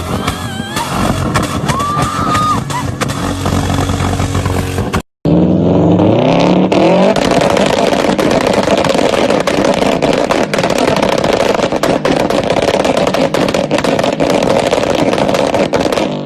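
Car engine being revved with its exhaust popping and crackling, in two edited clips. In the second, about five seconds in, the revs climb and then hold amid a dense run of sharp pops and crackles.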